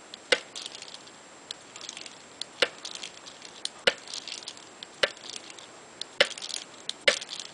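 A budgerigar repeatedly pecking and knocking at a toy, with sharp knocks about once a second. Soft, high budgie chatter runs between the knocks.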